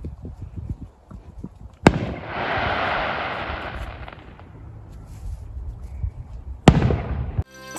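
Fireworks going off: scattered small pops, then a sharp bang about two seconds in followed by about two seconds of crackling, and another sharp bang near the end.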